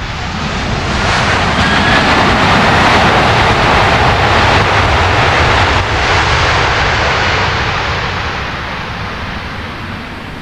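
Jet airliner passing close by, its engine noise swelling over the first couple of seconds, holding loud, then fading away.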